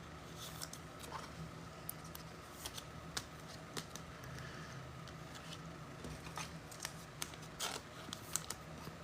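Trading cards and their packaging being handled: scattered light clicks, slides and rustles of cards.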